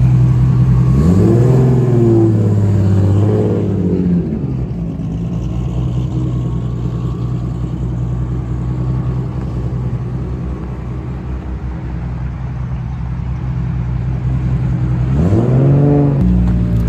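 A car engine idling close by, its throttle blipped so the revs rise and fall about a second in and again at about three seconds, then once more near the end.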